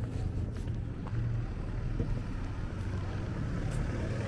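Street traffic: a car engine's steady low hum close by, with light wind on the microphone.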